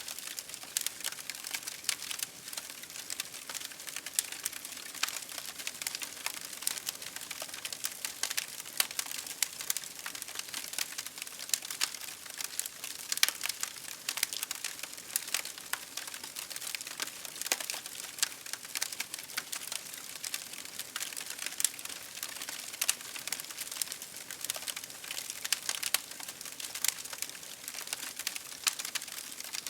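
Campfire crackling steadily, with many irregular sharp pops and snaps of burning wood over a soft hiss.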